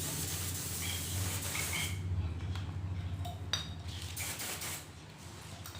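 Spray paint hissing in bursts: one long burst of about two seconds, then shorter ones, with a sharp click about three and a half seconds in.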